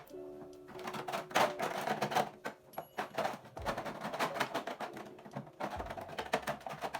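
Quick, irregular clicking and clattering of small hard objects being handled and set down, densest about a second and a half in and again in the last second.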